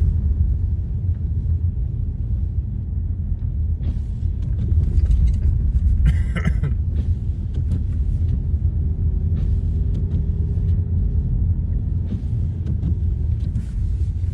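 Low, steady road and engine rumble inside a moving car, with a brief burst of noise about six seconds in.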